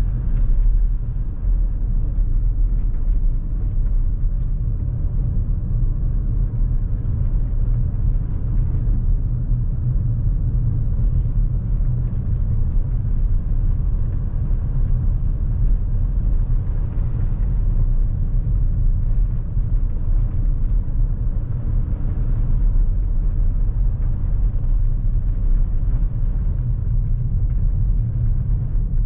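Lexus NX350h hybrid SUV on the move, heard from inside the cabin: a steady low rumble of tyre and road noise.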